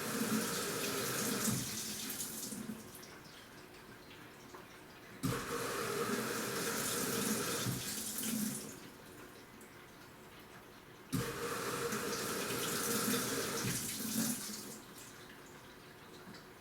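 Washing machine in its wash cycle: water sloshing in spells of about three seconds that start suddenly and tail off, repeating about every six seconds as the drum turns and pauses.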